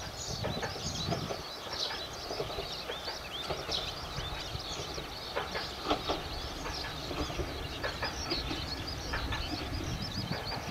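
Small birds chirping and singing continuously, many quick high chirps overlapping, over a low steady rumble.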